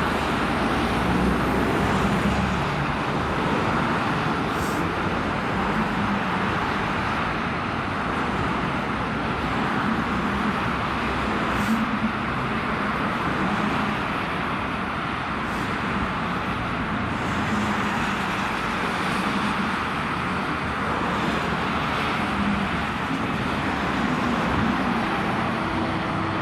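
Steady road noise of vehicles driving on a highway: a continuous, even rush of tyres and engines.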